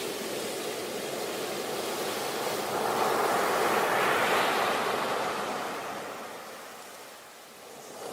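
Sea waves washing onto a beach: one wave swells and breaks in a rush about three to five seconds in, then draws back and fades, and the next wave begins to build near the end.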